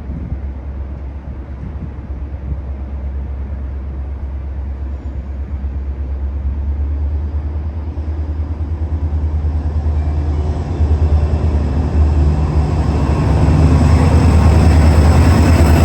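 A train approaching on the line. Its rumble grows steadily louder, and a high thin whine comes in over the last few seconds.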